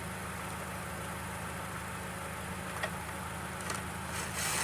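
A steady low mechanical hum, with a couple of faint clicks and a rushing noise that swells near the end.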